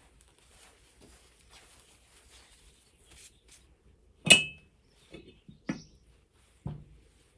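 Metal objects knocking together: one sharp clink with a brief ring about four seconds in, then three lighter knocks.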